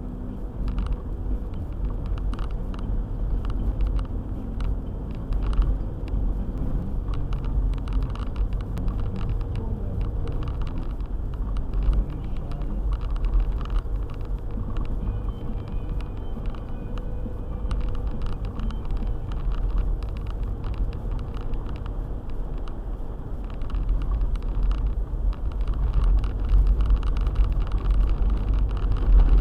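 Car driving on a snowy road: a steady low rumble of engine and tyres with frequent small knocks and ticks, growing louder over the last few seconds.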